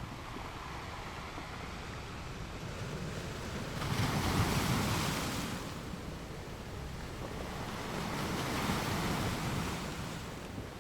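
Ocean waves breaking on the shore, two waves surging up about four and eight seconds in over a steady wash of surf.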